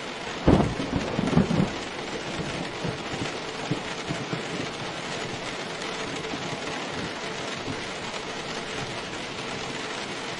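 Steady heavy rain, with a sudden loud clap of thunder about half a second in that rumbles for about a second and then fades back into the rain.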